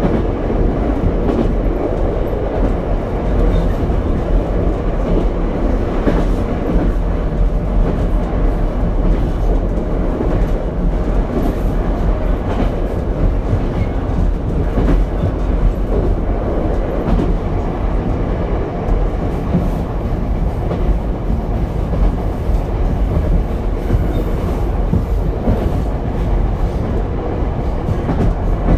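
Ichibata Electric Railway 7000-series single railcar running between stations, heard from inside the car: a steady rumble of wheels on rail with faint scattered clicks.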